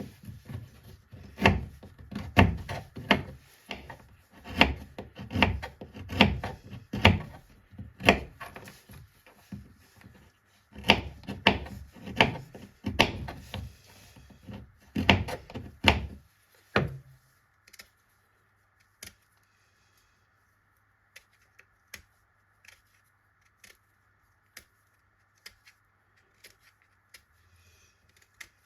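Repeated knocks on wood, one or two a second, with a short pause about ten seconds in; they stop about sixteen seconds in, leaving only a few light clicks.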